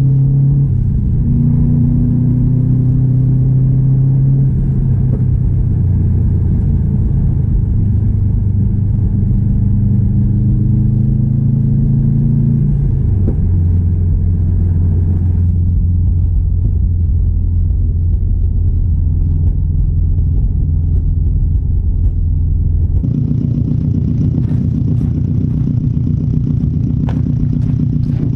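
Turbocharged flat-four engine of a built 2016 Subaru WRX STI driving, with a deep rumbling note. Its pitch steps and shifts as speed changes, then settles into a steady low drone. About 23 seconds in the sound changes abruptly to a brighter tone with scattered clicks.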